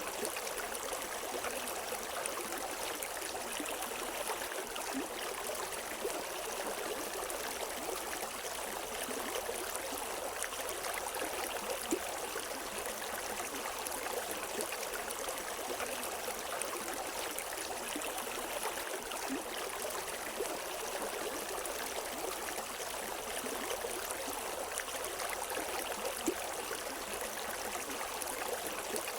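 River water flowing and gurgling over rocks: a steady rush with small splashes and trickles, and no birdsong.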